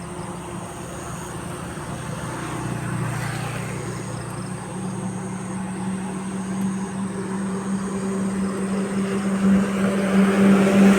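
A vehicle engine running with a steady low hum, growing gradually louder toward the end.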